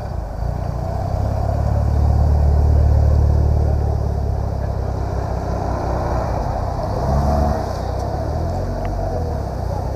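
Deep car exhaust rumble from passing cars, swelling to its loudest about three seconds in and fading. A second, shorter swell comes around seven seconds, over steady street background noise.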